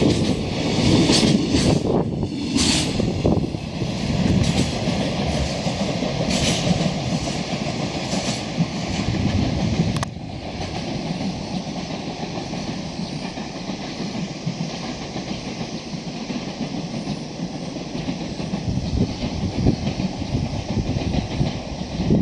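Container freight train's wagons rumbling past on the rails, with a few brief high-pitched screeches in the first half. The level drops suddenly about ten seconds in as the tail of the train goes by, and the quieter rumble of the departing train carries on.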